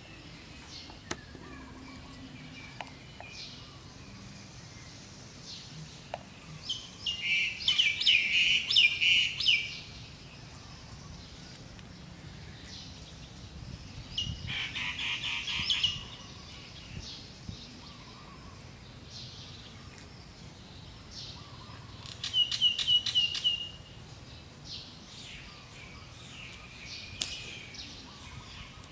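Birds calling in three loud bursts of fast, repeated high chirps, with scattered fainter chirps between them over a steady low background noise.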